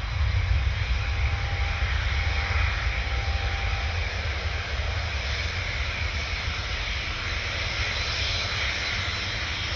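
Jet airliner's engines at full takeoff power during the takeoff roll: a steady deep roar with a hissing top, easing slightly as the aircraft accelerates down the runway.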